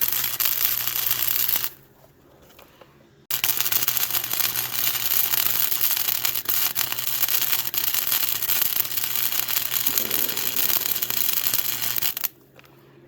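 MIG welder arc crackling as weld is laid into cracks and holes in a steel go-kart frame, over a steady electrical hum. There are two runs: a short one that stops about a second and a half in, then a longer one that starts again about three seconds in and stops near the end.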